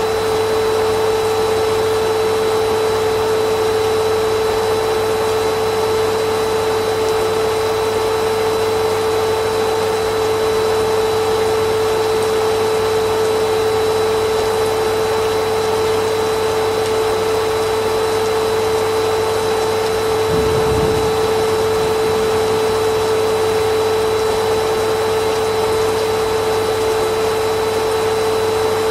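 Vacuum cleaner running steadily: a constant pitched whine over an even rush of air. A brief low bump breaks in about twenty seconds in.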